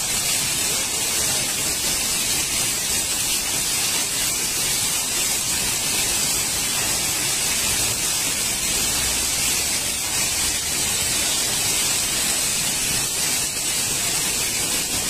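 Torrential rain mixed with hail pouring down, a dense steady hiss.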